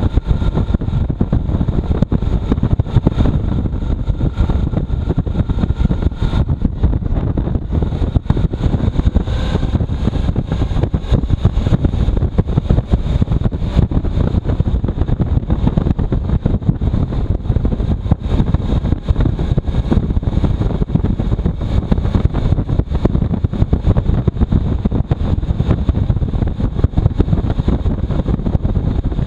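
Motorcycle on the move with heavy wind buffeting the microphone: a loud, choppy low rumble of wind mixed with engine noise.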